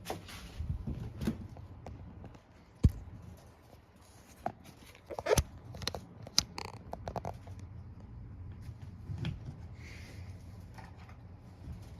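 Irregular clicks, scrapes and brief rustling of objects being handled, with a sharp knock about three seconds in and a cluster of louder clicks a couple of seconds later, over a faint low steady hum.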